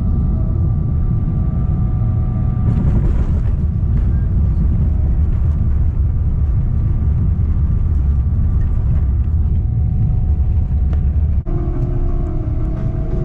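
Steady, heavy low rumble of a vehicle heard from inside it. It cuts off abruptly about a second and a half before the end, giving way to music.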